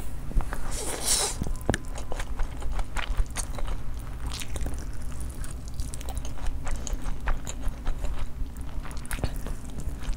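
A person chewing and biting food, with many short crunchy clicks throughout.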